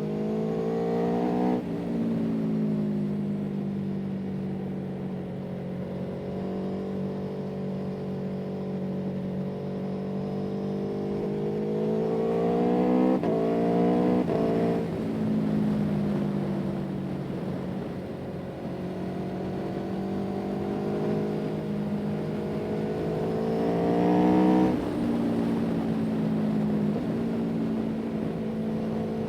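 A motor vehicle's engine running steadily. Its pitch climbs slowly and drops suddenly about four times, the pattern of a vehicle accelerating through gear changes.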